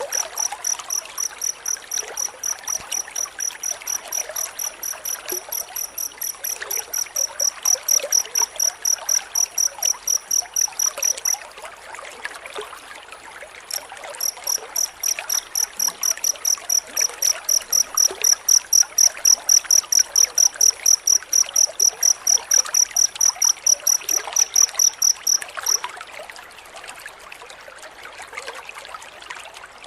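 Cricket chirping in a fast, even series of high-pitched pulses, about four a second, breaking off for a couple of seconds near the middle and stopping a few seconds before the end. Under it runs a steady hiss like running water.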